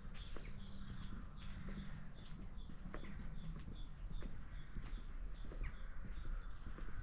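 A small songbird calling one short high note over and over, about three times a second. Footsteps click on the pavement underneath, over a low wind rumble.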